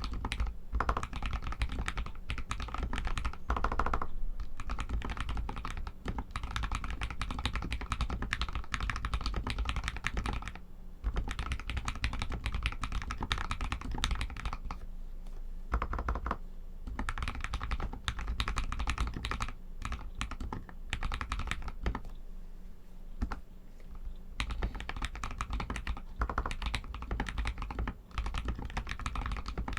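Fast, continuous typing on a Royal Kludge RK61 mechanical keyboard with Outemu Red linear switches: a steady clatter of keystrokes that thins out briefly a few times.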